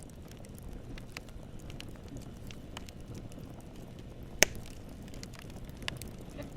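Campfire burning: a steady low rumble with scattered small crackles of the wood, and one sharp loud pop about four and a half seconds in.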